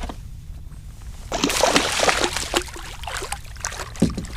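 Water splashing and dripping beside a kayak, loudest for a couple of seconds in the middle, over a low steady rumble.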